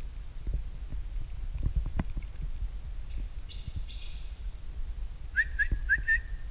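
A bird calling from above the lagoon: a raspy note in the middle, then four quick, short rising chirps near the end. Underneath is a steady low rumble of wind on the microphone, with a few light knocks.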